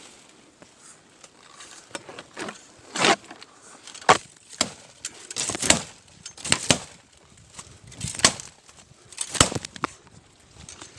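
Irregular hollow wooden knocks and clatters, about one a second, with some louder strikes near the middle: wood striking wood, as bamboo poles and a paddle knock against a wooden boat.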